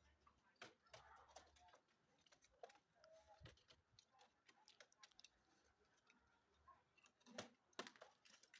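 Near silence with faint scattered clicks and taps, two of them stronger near the end.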